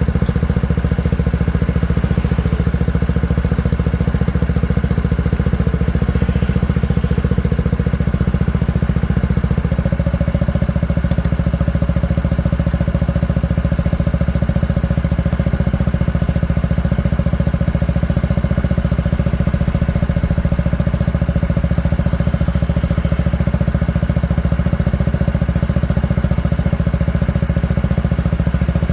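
Honda PCX125 scooter's single-cylinder four-stroke engine idling steadily through an IXIL aftermarket exhaust.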